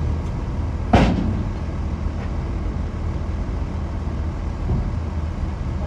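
Bulldozer diesel engine running steadily, with one sharp metallic clank about a second in.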